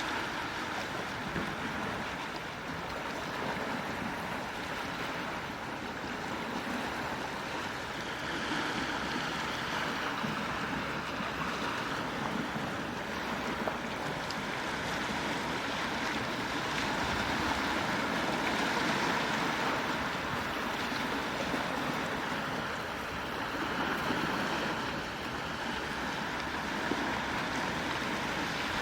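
Gentle ocean waves washing onto the shore, a steady wash that swells softly every few seconds.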